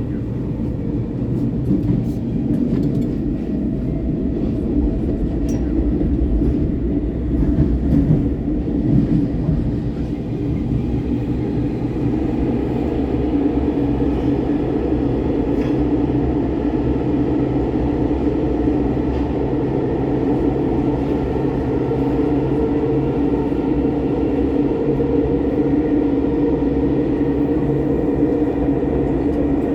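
Steady running noise heard inside an Athens Metro Line 1 electric train carriage: a continuous rumble with a hum that grows stronger about twelve seconds in.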